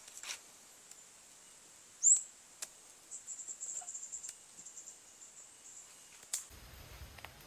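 Small forest bird calling: a sharp, high rising chirp about two seconds in, then a rapid high trill that fades away. A few faint clicks are scattered through it.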